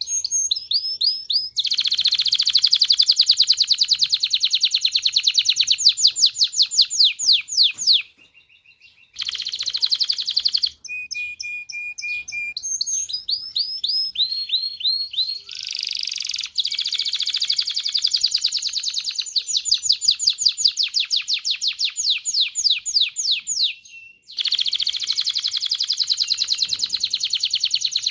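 Domestic canary singing: long, fast trills of rapidly repeated notes, each phrase swapping to a new note type. The song breaks off briefly about eight seconds in and again near the end before resuming.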